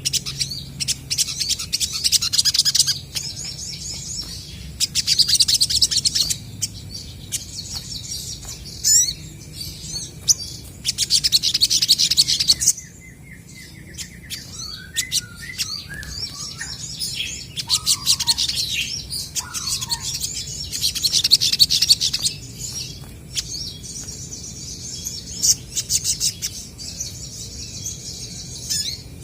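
Olive-backed sunbirds calling to each other in bursts of rapid, high, thin chirps and trills. A few lower sliding notes come in a short lull about halfway through.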